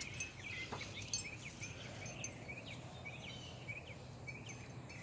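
Small birds chirping outdoors, quick short calls repeated several times a second, over a steady low background rumble.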